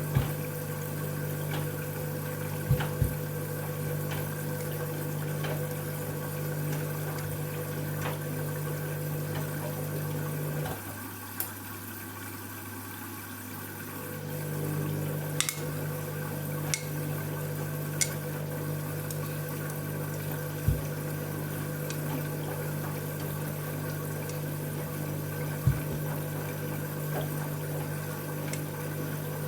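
Candy washing machine at the start of its cycle, water running in with a steady machine hum. About a third of the way through, the hum drops out for roughly three seconds and then comes back. A few sharp clicks sound over it.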